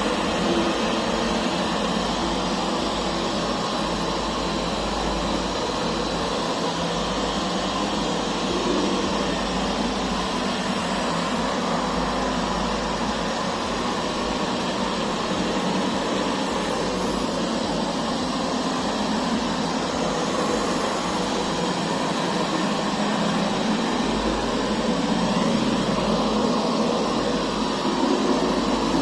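Puppyoo R6 robot vacuum running, a steady whirring hum of its suction fan and brushes.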